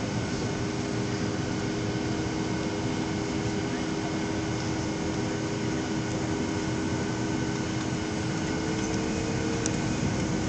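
Steady drone inside an airliner cabin: jet engines at idle and the cabin air running, with several steady hums and one that rises slightly near the end.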